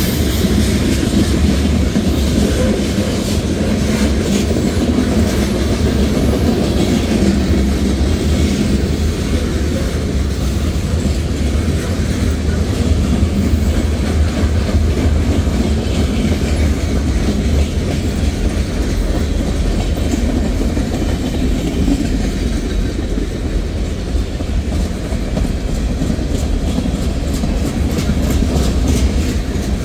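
Norfolk Southern manifest freight train's cars rolling past, a steady low rumble of steel wheels on rail.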